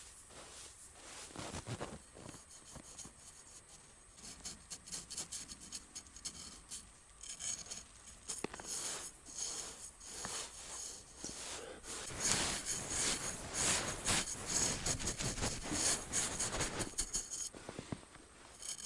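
Quick, repeated scraping and rubbing strokes that thicken about four seconds in, are loudest in the last third and stop shortly before the end.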